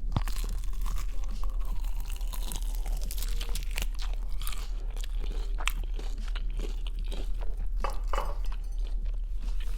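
Close-miked biting and chewing of fried chicken: a continuous run of small crisp crackles from the breading, only a light crunch.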